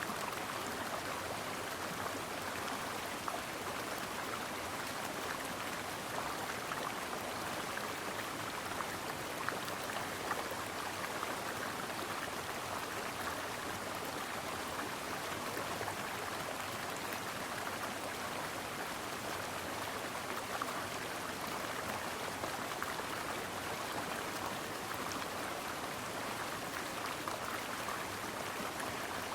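Stream water flowing and babbling over rocks, a steady rushing with small splashes.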